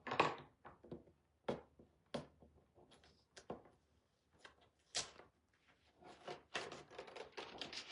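Scattered knocks and clicks of small objects being handled and set down on a work table, turning into a denser clatter over the last couple of seconds.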